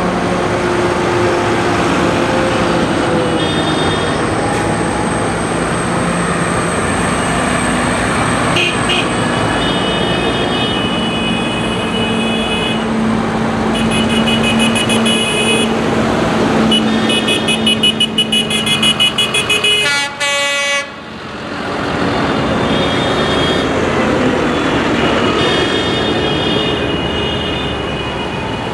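Tractor engines running as they pass, with horns honking again and again over them. Near the middle comes a fast run of rapid toots.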